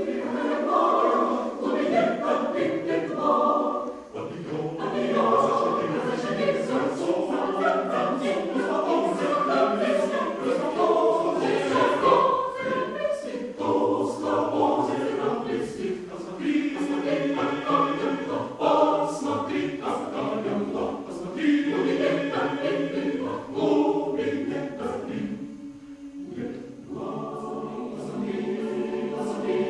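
Choir singing unaccompanied in several voice parts, with a short lull about 26 seconds in before the voices come back in.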